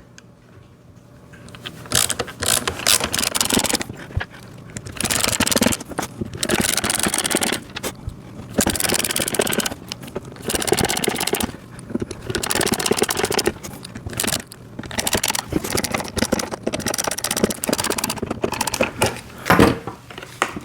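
Small screws being driven in to fasten a toy motorcycle's training wheel bracket. The scraping, grinding noise comes in repeated spells of a second or two with short pauses between screws.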